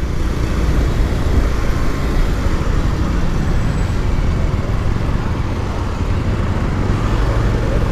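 Steady motorcycle riding noise: the engine's low rumble mixed with wind and road noise, with no change through the stretch.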